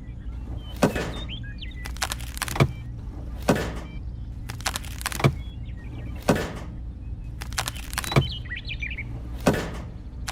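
Birds chirping twice, briefly, over a steady low hum, with sharp knocks about once a second.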